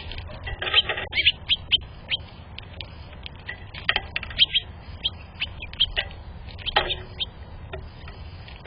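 Small birds making short, sharp chips and clicks in three quick clusters, about a second in, about four seconds in and near seven seconds, with scattered single ticks in between.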